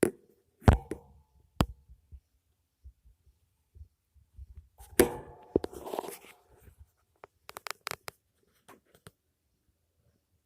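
African grey parrot preening: scattered sharp clicks, a brief rustling burst about five seconds in, then a quick run of clicks, going quiet near the end.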